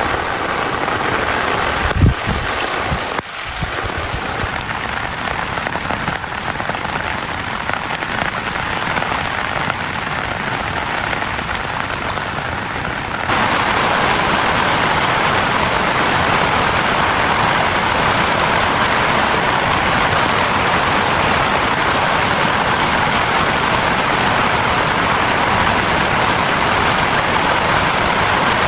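Heavy rain falling steadily, an even hiss. There is a single dull thump about two seconds in. About halfway through the rain abruptly becomes louder and stays so.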